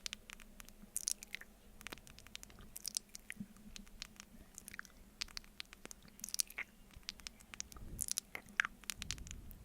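Close-miked mouth sounds of eating honey off a spoon: sticky, wet smacks and clicks coming at an irregular pace.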